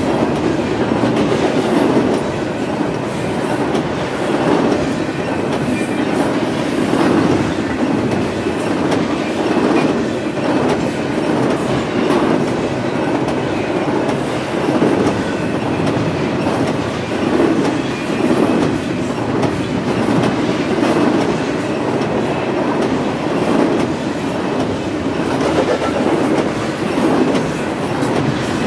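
Double-stack intermodal freight train's loaded well cars rolling past: a steady rumble of steel wheels on rail with a repeated clickety-clack of the wheel sets.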